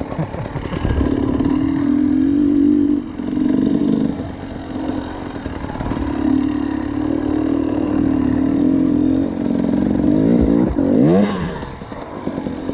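Enduro motorcycle engine running under throttle, holding a steady pitch with a few brief drops, then revving up sharply and falling back about eleven seconds in.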